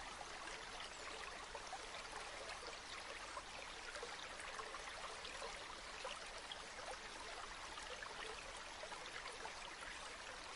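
A river or stream flowing steadily, with a constant babble of small trickles and splashes.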